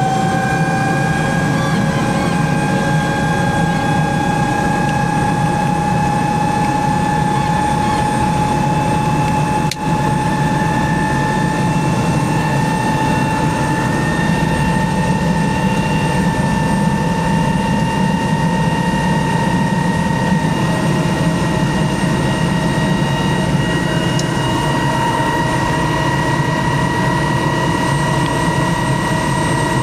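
Twin-engine helicopter's gas turbine just after start, its whine climbing slowly and steadily in pitch as the engine spools up, over a steady low rumble, heard from inside the cockpit.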